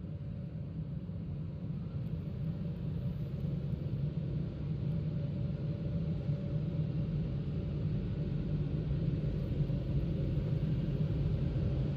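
Automatic car wash machine running: a steady low rumble with a faint hum, slowly growing louder.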